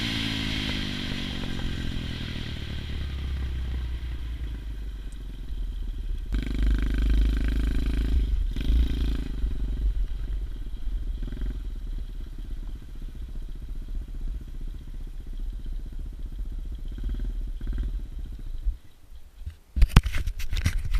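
110cc pit bike's single-cylinder four-stroke engine, its revs falling away at the start and then running at low revs, swelling for a few seconds in the middle. Near the end it fades out and a few sharp knocks follow.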